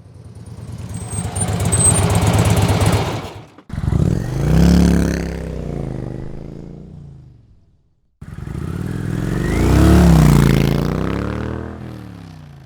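Motorcycle engine heard in three cut-together passes. The first is a pulsing run that grows louder and cuts off suddenly. The next two rise in pitch and then fall away as they fade out.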